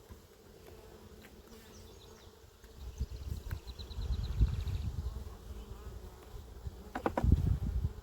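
Honeybees buzzing around an open hive during a frame inspection, a steady hum, with low rumbling on the microphone from about three seconds in.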